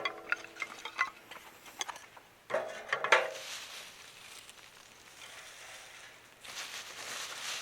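Metal cookware and utensils clinking and being handled, with ringing tones after the knocks, a second clatter about two and a half seconds in, and a faint hiss toward the end.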